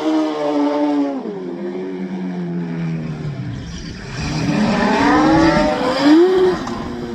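Twin Suzuki Hayabusa inline-four engines of a mini truck running at speed. The engine note holds steady, drops as it backs off about a second in, then climbs in pitch twice under hard acceleration between about four and six and a half seconds, with a rough hiss over it.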